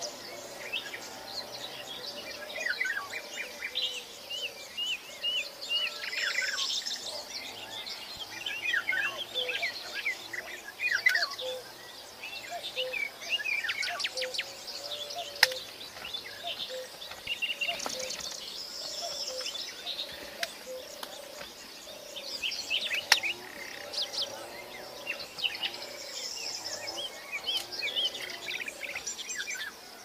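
Several birds chirping and calling in overlapping clusters of quick high notes, with a lower run of short repeated calls beneath. Two sharp clicks stand out, about halfway and about three quarters in.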